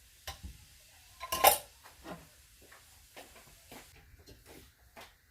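Dishes and utensils clinking and clattering during kitchen clean-up: a series of separate knocks, with one louder ringing clank about a second and a half in.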